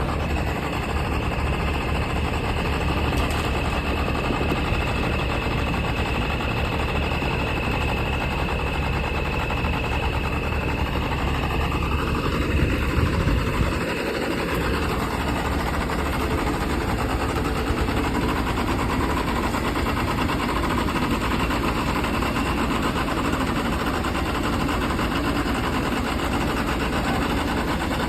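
Tractor engine running steadily, with a steady high whine over roughly the first half and a slightly louder stretch about halfway through.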